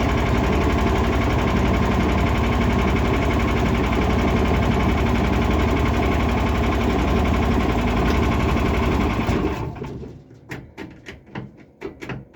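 Lifan engine of a home-built karakat running steadily with a fast, even beat, then shutting off about nine and a half seconds in. A series of short, sharp clicks and knocks follows.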